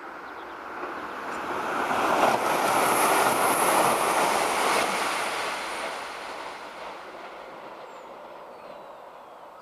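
Irish Rail 22000 class diesel multiple unit passing through at speed: a rushing noise of wheels on rail that builds over a couple of seconds, peaks as the train goes by, then fades away.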